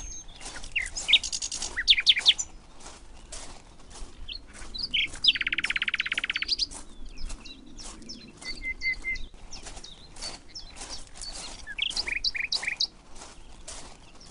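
Songbirds chirping and calling in forest, many short chirps with a fast, even trill lasting about a second around five seconds in, and a few short whistled notes later.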